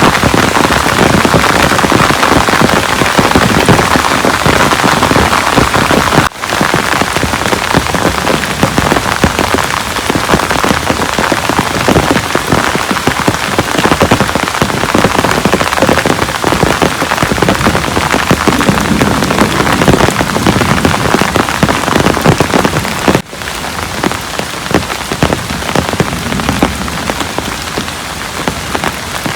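Heavy rain falling, a dense steady patter of drops hitting surfaces. The sound briefly drops out twice, about six seconds in and again about three-quarters of the way through, and is a little softer after the second break.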